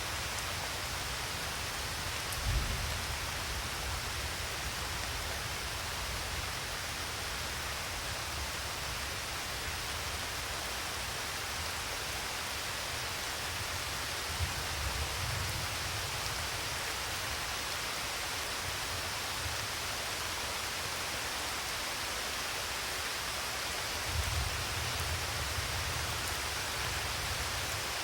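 Steady rain, an even hiss, with three short low rumbles: one a few seconds in, one around the middle and one near the end.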